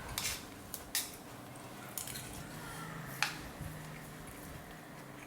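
Cutlery clinking against a soup bowl during eating, a few short sharp clinks about a second apart, the loudest about three seconds in.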